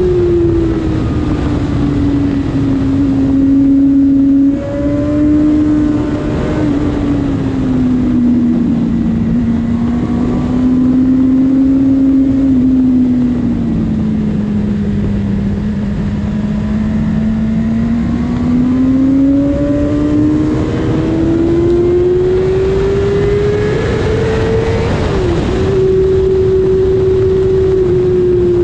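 Honda CBR600RR inline-four sports bike running under way. Its engine note sinks slowly, climbs back up again, and drops sharply once near the end, over steady wind rush.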